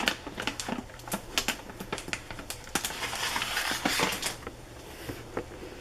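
Pet cat chewing dry food, a fast irregular run of small crunches and clicks, busiest about three to four seconds in and thinning out near the end.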